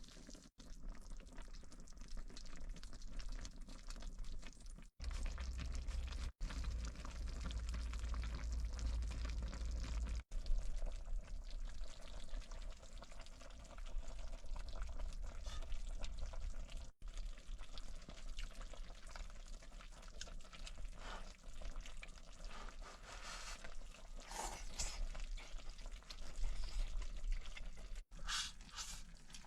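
Cooking sounds in several short pieces: liquid poured and stirred in a pot over the stove. A low rumble runs between about five and ten seconds in.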